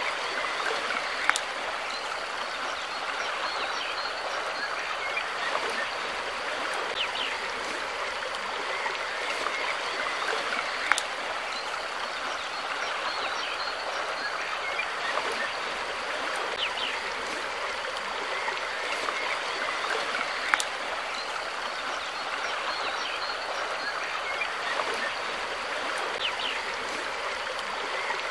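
Stream water flowing steadily in a continuous rushing burble, with a few sharp splashing clicks now and then.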